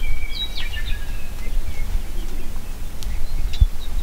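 Small birds chirping and whistling in short high notes, busiest in the first second and a half, over a steady low rumble, with one dull thump about three and a half seconds in.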